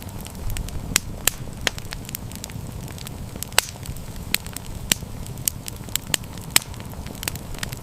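Wood campfire burning steadily with a low rumble, its irregular crackles and sharp pops several times a second, a few pops louder than the rest.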